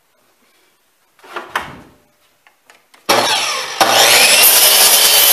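A few light knocks of wood being handled, then an electric miter saw switches on about three seconds in, its motor whine rising as it spins up and cuts a scrap of wood at a 45-degree angle.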